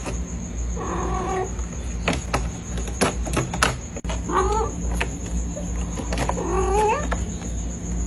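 A cat meowing: three drawn-out, wavering calls a few seconds apart, with a few sharp clicks or knocks between them.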